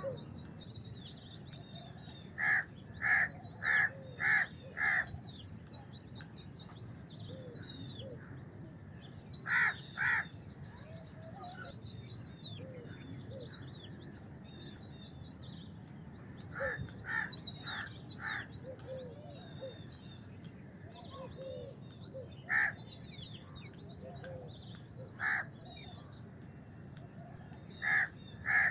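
House crows cawing in short series of harsh calls: five in a row early on, then pairs, a run of four and single caws spaced apart. Behind them a constant high twittering of small birds.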